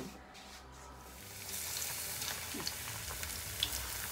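Potato slices frying in hot mustard oil in a small steel saucepan: a steady sizzle with small scattered crackles, coming in about a second and a half in.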